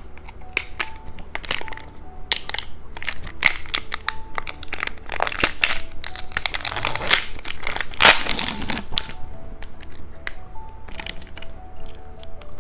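Close crinkling and crunching of a cheese-stick candy and its wrapper being handled and eaten, with a dense stretch of crackling in the middle, over soft background music.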